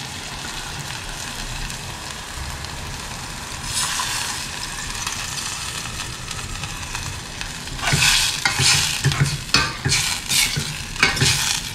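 Stuffed brinjals sizzling in gingelly oil in a stainless steel pot. About four seconds in, tamarind water is poured in and the hiss grows louder. From about eight seconds, a steel ladle stirs and clatters against the pot.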